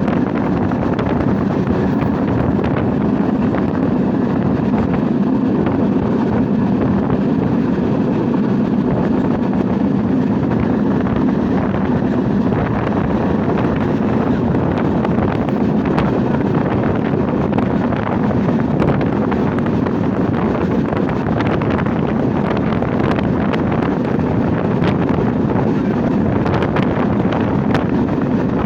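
Steady running noise of a passenger train in motion, an even rumble with wind buffeting the microphone.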